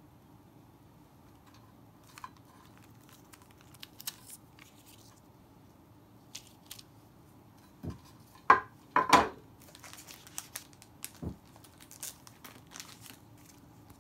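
Something dry and crinkly being handled by hand: scattered short crinkles and rips, with the loudest few sharp tearing sounds about eight to nine seconds in.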